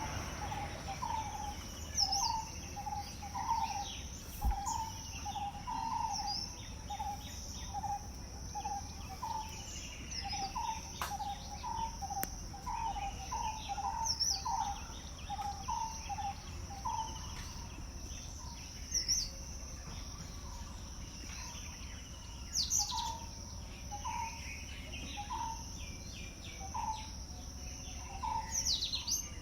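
Outdoor nature ambience: a steady high-pitched insect drone throughout, one bird repeating a short low call about twice a second, sparser in the second half, and other birds chirping with quick falling notes. A low rumble of wind or background noise runs underneath.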